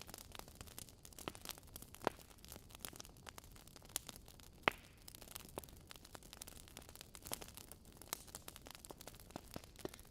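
Wood fire crackling steadily with irregular sharp pops and snaps over a soft low rush, one louder pop a little before the middle.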